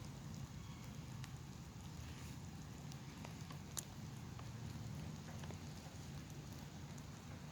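Light rain sprinkling outdoors: scattered small raindrop ticks, one sharper tick nearly four seconds in, over a steady low rumble.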